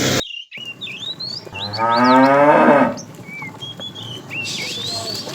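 A cow mooing once, a loud wavering call of about a second and a half starting about one and a half seconds in, with high chirps in the background.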